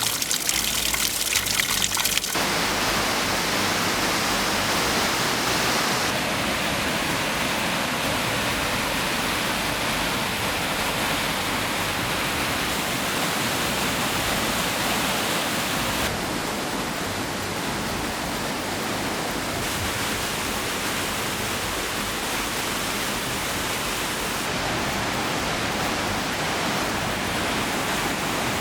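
Steady rush of a mountain waterfall and stream, a dense even noise with no distinct events, its tone shifting abruptly several times as the shots change.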